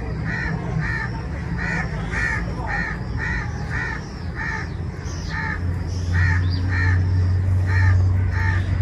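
A bird calling over and over in short calls, about two a second. A low steady hum joins about five and a half seconds in.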